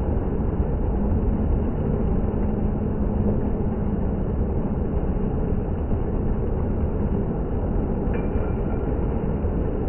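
Indoor water fountain running: a steady rush of falling and splashing water, heavy in the low end.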